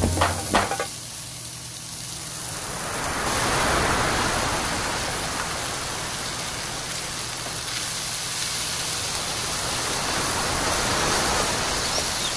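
Steady sizzling of green peas and spices frying in hot oil in a pan, growing a little louder a few seconds in.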